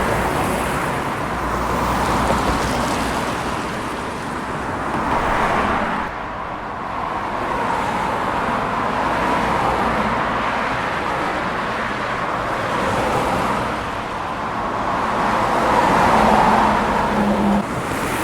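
Steady rushing noise, rising and falling in slow swells every few seconds, with a sudden drop in level about six seconds in and again near the end.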